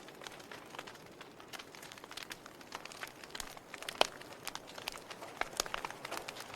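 Log fire crackling: irregular sharp pops and snaps from the burning wood over a soft steady hiss, with one louder pop about four seconds in.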